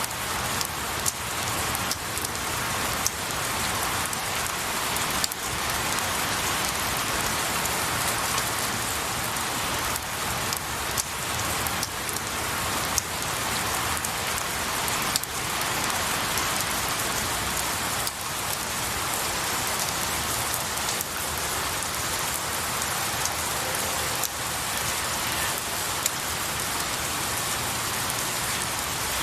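Steady rain falling on pine needles and tree branches, with many separate drops striking sharply over the even hiss.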